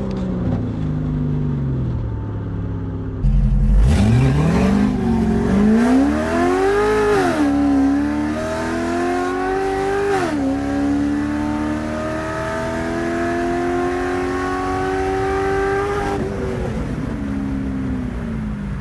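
C6 Corvette V8 fitted with aftermarket headers and an X-pipe, accelerating hard through the gears. It comes off the throttle at first, then about three seconds in it suddenly gets louder and climbs in pitch. The pitch drops at two upshifts, then the engine pulls in a long climb and winds down near the end.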